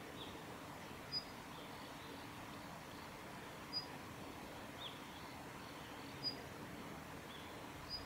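Female Daurian redstart giving its short, high 'hit' call notes, four times at roughly two-and-a-half-second intervals, with a few fainter, lower notes between them, over a steady background hiss.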